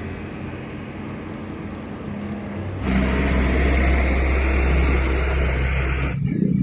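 Truck engines running, in spliced clips: a steady hum, then about three seconds in an abrupt cut to a louder, deeper rumble, which ends in another cut near the end.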